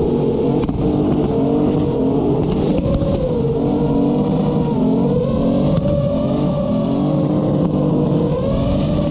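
Car engine revving up and down over and over, about once a second, as a convertible drifts in circles, over the steady whine of the filming FPV drone's motors.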